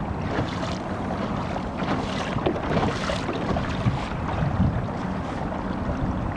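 Water rushing and splashing along a moving kayak's hull, with wind buffeting the microphone; a few brighter splashes come about two to three seconds in.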